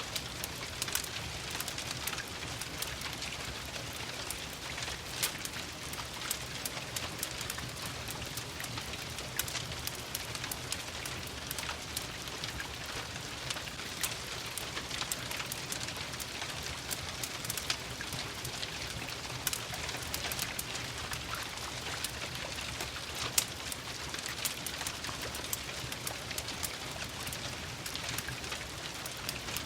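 Steady rain falling on a surface, mixed with the sharp, irregular pops and clicks of a crackling wood fire, one pop a little louder than the rest past the middle.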